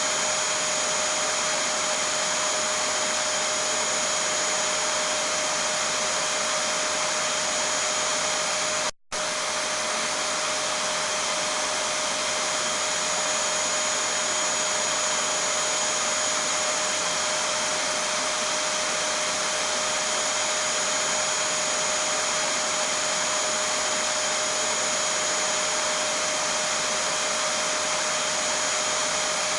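Vacuum cleaner running steadily, a constant rushing noise with a steady whine on top. It cuts out for a fraction of a second about nine seconds in, then carries on unchanged.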